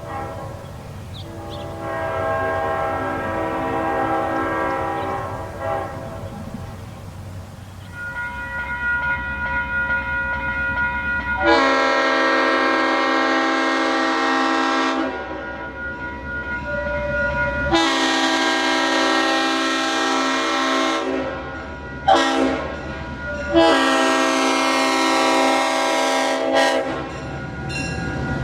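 A GP38-3 diesel locomotive's cab-mounted Leslie RS5T five-chime horn sounds a chord, fainter at first. It then blows the grade-crossing signal up close: two long blasts, a short one and a long one, over the low rumble of the locomotive passing.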